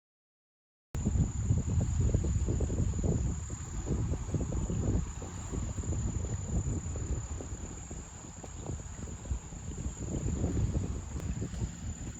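Insects singing a steady high-pitched trill, with wind rumbling and buffeting on the microphone, the loudest part. The sound cuts in abruptly about a second in.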